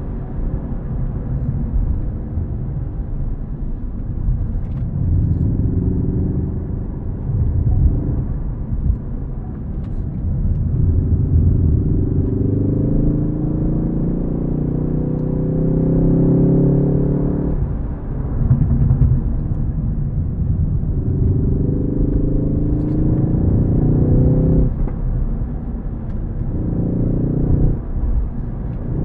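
Ford Focus ST engine under hard acceleration with a manual gearbox. The revs climb steadily and then fall away sharply four times, at gear changes or lifts off the throttle, before climbing again.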